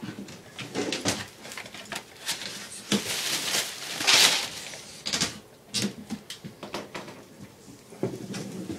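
Irregular knocks, clicks and scraping of hand demolition work on flooring and debris, with a louder rasping scrape about three to four and a half seconds in.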